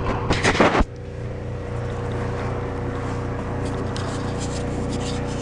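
A steady low mechanical hum, engine-like, with a brief loud noisy burst about half a second in.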